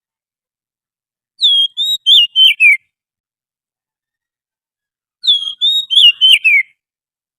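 Oriental magpie-robin song: two short phrases of clear whistled notes, each about a second and a half long and ending in falling notes, a few seconds apart. It is a recorded song used as a bird-trapping lure call.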